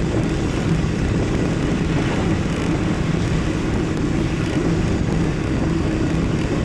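Steady rumble of riding heard on a chest-mounted camera: wind on the microphone and rolling noise, with a low steady hum underneath and no break.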